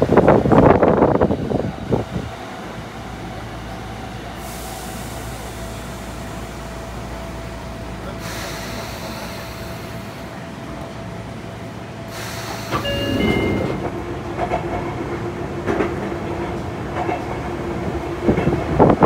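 Interior running noise of a Sotetsu 8000 series electric train car travelling between stations: a steady rumble with a held humming tone through the middle. The sound is louder and busier in the first two seconds and again in the last third.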